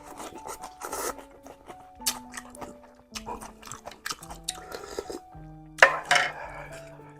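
Close-up chewing and biting sounds of a person eating noodle soup with meats, in irregular short bursts, the loudest about six seconds in, over background music with held notes.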